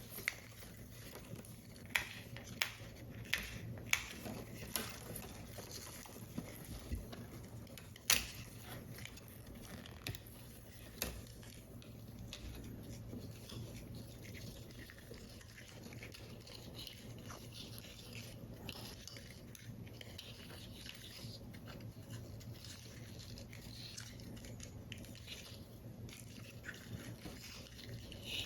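Paper and card parts being handled during paper model assembly: a run of sharp taps or clicks over the first eleven seconds, the loudest about eight seconds in, then soft rustling and scraping.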